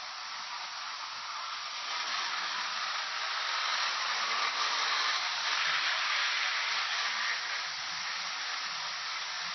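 Steady hiss of steam from a steam train, swelling a couple of seconds in and easing off toward the end.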